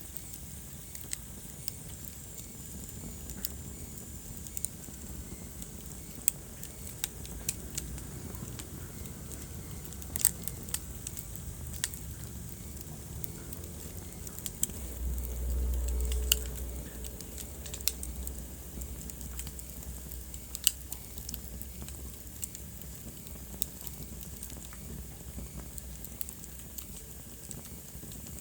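Wood fire burning in a fireplace: a steady low rumble and hiss with scattered sharp crackles and pops, a few much louder than the rest. The low rumble swells briefly about halfway through.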